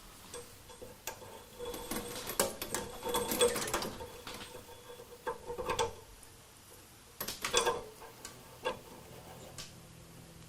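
Scattered small clicks, knocks and rattles of hands and tools working on go-kart parts, coming in clusters about two, six and seven seconds in.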